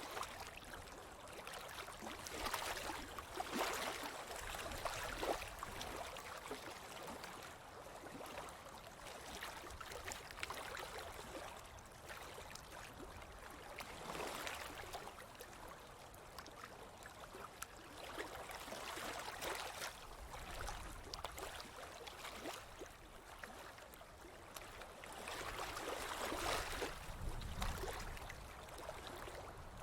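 Ocean waves breaking and washing up a beach, the surf rising and falling every few seconds.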